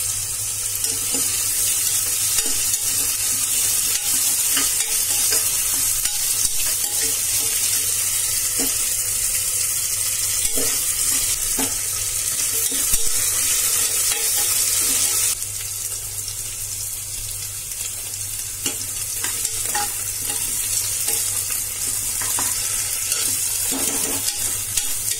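Sliced onions and potato cubes sizzling in hot oil in a pressure cooker while a spatula stirs them, with short scrapes and taps against the pot. The sizzle drops abruptly about fifteen seconds in.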